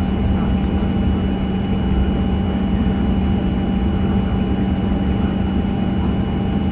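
Steady cabin drone of a Boeing 737-900 with its CFM56-7B jet engines running, heard from inside the passenger cabin: a constant low hum with faint steady whines above it, not rising or changing.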